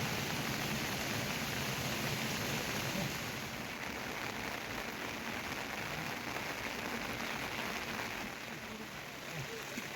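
Steady rain falling, an even hiss that eases off slightly a few seconds in.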